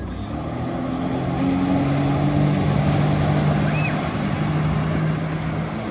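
Motorboat engine running steadily, its pitch drifting slightly, over a wash of water and wind noise.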